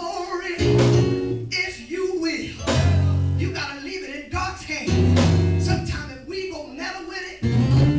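Live church band music with guitar: sustained bass notes with sharp hits between them.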